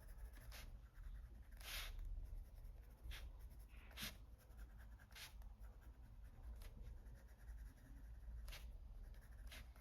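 Coloured pencil scratching faintly on paper in short shading strokes, pressed a little harder into the shadow areas.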